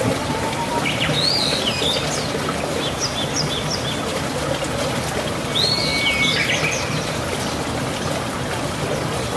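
A small songbird chirping in short, quick phrases, about a second in, again near the middle, and once more past halfway, over a steady hiss.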